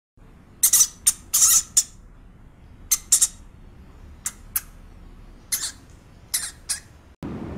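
Pet rat squeaking: about a dozen short, sharp, high squeaks in small clusters.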